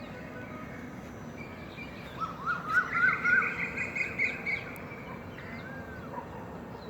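Birds singing against steady outdoor background noise. About two seconds in comes a quick run of repeated rising-and-falling whistled notes with higher chattering above, lasting a couple of seconds, and scattered fainter chirps follow.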